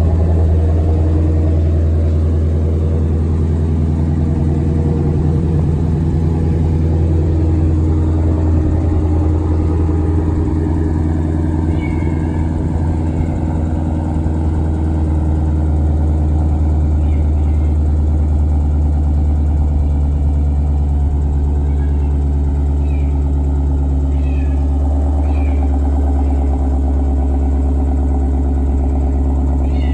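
2017 Shelby GT350R's 5.2-litre flat-plane-crank V8 idling steadily through its stock exhaust.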